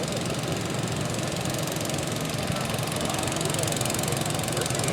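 Garden tractor engine running steadily, getting a little louder from about three seconds in.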